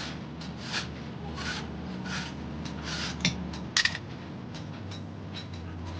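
A run of short scraping or rubbing strokes, about one every two-thirds of a second, with two sharp clicks a little past the middle, over a low steady hum.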